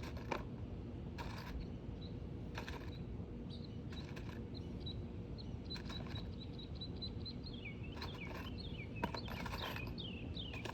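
A songbird singing: short high notes that quicken into a fast trill, then several down-slurred notes near the end. Brief scraping and rustling sounds come every second or two over a steady low background noise, from an asphalt shingle being worked into place on the roof.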